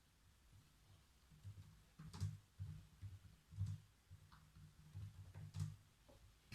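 A few scattered faint clicks with soft low knocks around them, the sharpest three about a second and a half apart: occasional keystrokes on a computer keyboard.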